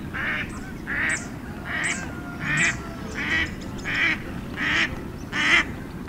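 A duck quacking over and over, about one quack every three-quarters of a second, eight quacks in all, over a steady low background rumble.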